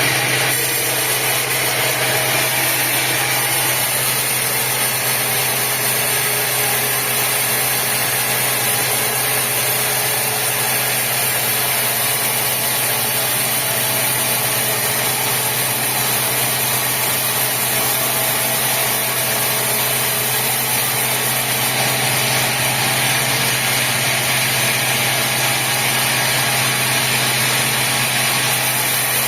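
Sawmill machinery running steadily: a continuous engine-like hum under a loud hiss, with no distinct cuts or knocks.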